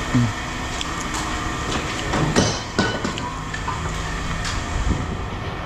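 Scrap metal pieces clanking and knocking a few times over a steady mechanical rumble of a running engine.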